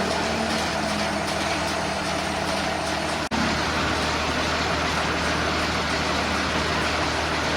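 A steady engine running, a continuous hum under an even noise, broken by a brief dropout about three seconds in.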